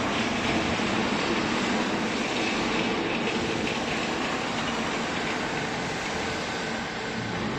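Automatic hydraulic clothing baler running: a steady mechanical whir and rumble with a faint hum, easing off slightly toward the end.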